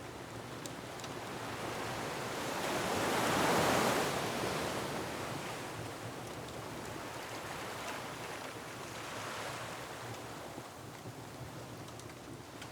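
Ocean waves surging and breaking on a rocky shore. One large wave swells to a peak about four seconds in and a smaller one follows near nine seconds, with a few faint fireplace crackles underneath.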